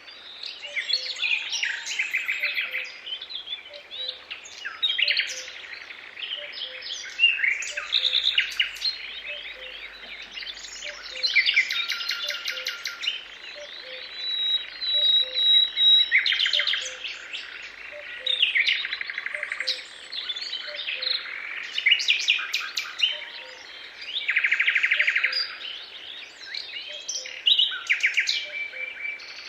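Several songbirds singing and calling at once: overlapping chirps, trills and rapid runs of notes that come and go in bursts. Under them, a faint low note repeats at a steady pace.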